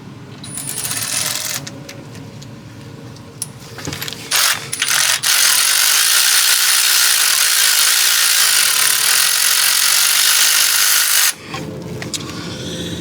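Ratchet wrench on a 13 mm socket backing out the idler pulley bolt on a 5.7L Hemi engine. A few short bursts of ratcheting come first, then about six seconds of loud, steady running that stops abruptly.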